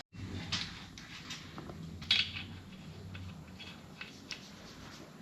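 Light metallic clicks and clinks of engine parts and tools being handled, with one sharper click about two seconds in, over a faint low hum.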